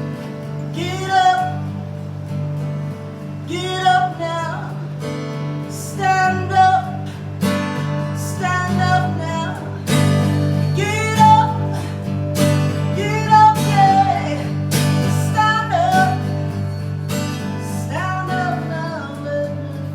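Live acoustic guitar playing a steady accompaniment, with a singer's melodic vocal phrases rising and falling over it every couple of seconds.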